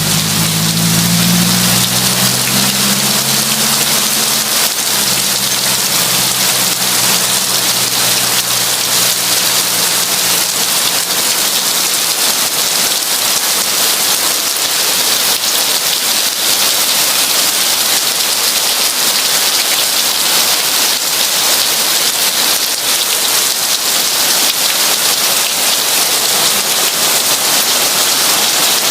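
Heavy rain pouring steadily, a dense even hiss. A low rumble at the start fades away over the first several seconds.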